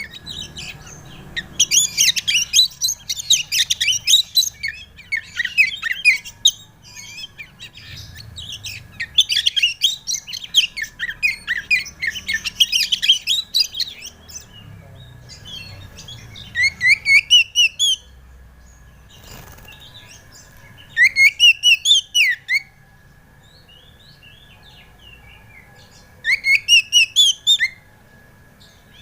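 Oriental magpie-robin (kacer) singing a dense, rapidly varied song, then three short bursts of quickly repeated rising notes. A faint steady high hum runs underneath.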